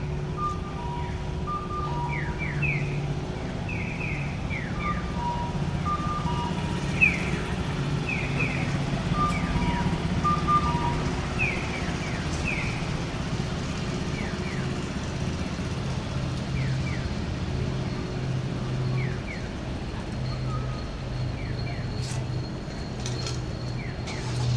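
Electronic chirps of a Japanese pedestrian crossing signal, with a repeated falling 'piyo' chirp and a two-note 'cuckoo' tone pair, over steady traffic hum. The two-note tones stop about halfway through, while the chirps go on more faintly.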